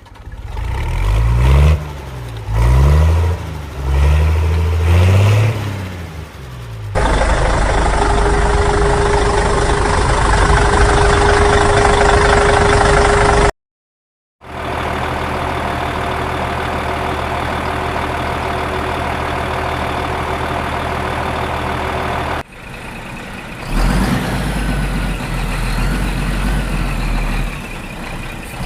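A string of edited vehicle engine sounds: an engine revving up and down repeatedly for the first several seconds, then steady running with a held tone, cut off suddenly for about a second. A steady engine hum follows, giving way to more uneven engine sound near the end.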